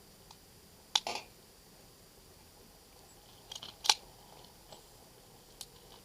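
Metallic clicks from a USFA Zip 22 .22 pistol being handled and readied to fire. There is a sharp click about a second in, then a quick run of clicks ending in a louder clack about four seconds in, and a couple of faint ticks.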